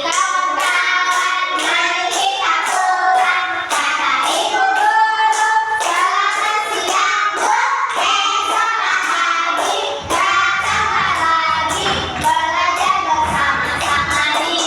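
A group of young children singing a song together, with regular sharp beats keeping time; low thumps join in about ten seconds in.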